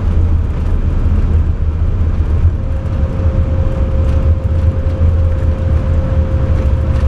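Airbus A340 landing rollout heard from the flight deck: a loud, steady low rumble of the airliner decelerating on the runway just after touchdown, with a thin steady tone joining about two and a half seconds in.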